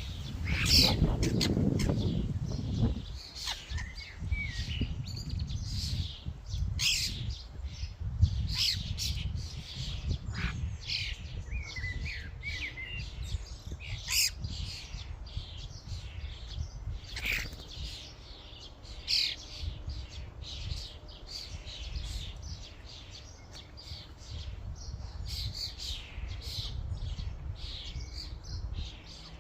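A flock of common starlings calling at a feeding station: a steady run of short chattering calls, whistles and harsh squawks. A loud low rumble sounds in the first few seconds.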